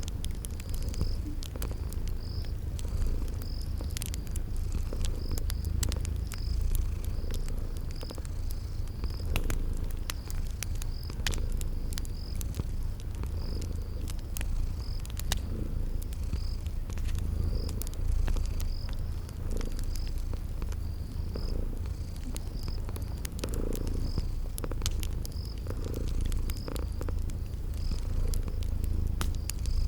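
Cat purring steadily in a low rumble, mixed with a wood fire crackling in scattered sharp pops and a cricket chirping in a regular, even rhythm.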